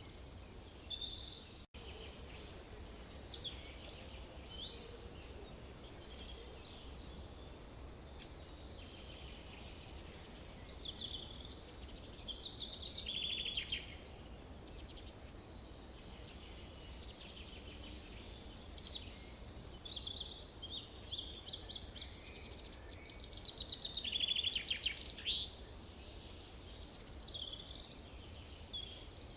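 Several songbirds singing and chirping in a forest dawn-chorus mix, with louder rapid trills about halfway through and again near the end, over a steady low background rumble.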